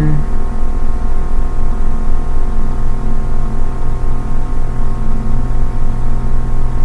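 A steady drone of several held tones at the same pitch throughout, with a low hum underneath, running without a break and about as loud as the talking around it.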